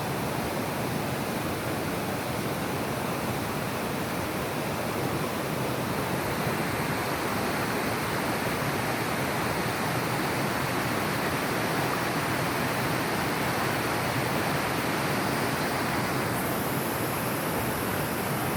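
Steady rushing of running water, an unbroken even hiss; near the end the highest part of the hiss turns brighter.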